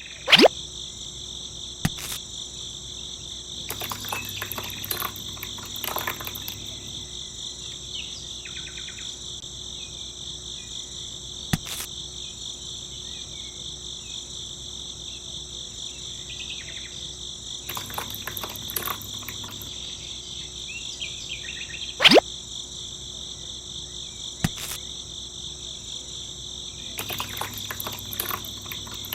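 Steady high-pitched insect chorus, with a few sharp clicks and three short spells of scraping and clattering from hand work on the small build.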